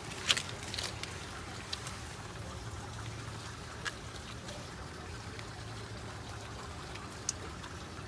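Steady rain falling, a continuous wash of water sound with a few sharp ticks and taps scattered through it, the loudest just after the start.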